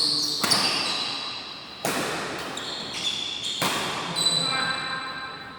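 Badminton rally in a hall: sharp racket strikes on the shuttlecock, five in all a second or so apart, with shoes squeaking on the court floor between them, everything echoing.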